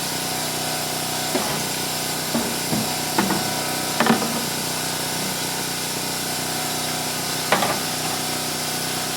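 A handful of short knocks and clatters as parts are handled and fitted back onto an ATV during reassembly, over a steady background hum.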